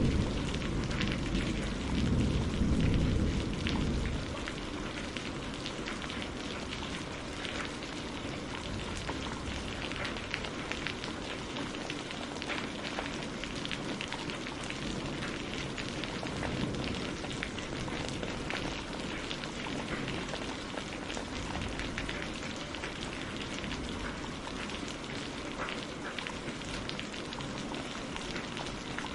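Steady rain falling on a greenhouse, with many separate drops striking close by over an even wash of rain. A low thunder rumble dies away in the first four seconds.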